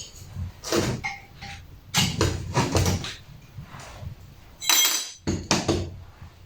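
Metal workpieces knocking and clanking as they are handled and clamped on the workbench, about eight separate knocks, with one sharper ringing metallic clink a little before five seconds in.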